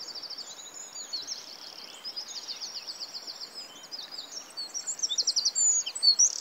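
Birdsong: several small birds chirping and singing rapid trills, overlapping, growing louder near the end.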